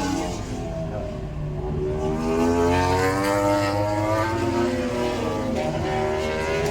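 Motorcycle engines running and revving, several at once, their pitch slowly rising and falling over a steady low hum.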